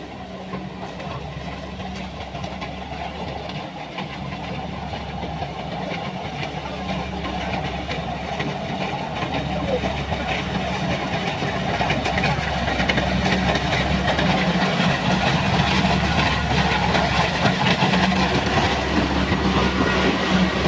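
Kubota combine harvester running, its engine and threshing machinery clattering steadily, growing gradually louder as it comes closer.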